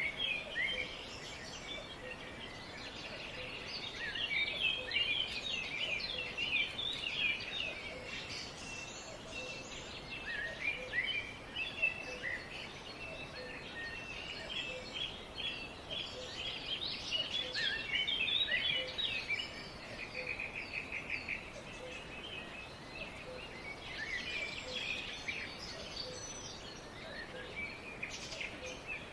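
Several wild birds chirping and singing together, with many overlapping short calls and a rapid trill about two-thirds of the way through, over a faint steady background hiss.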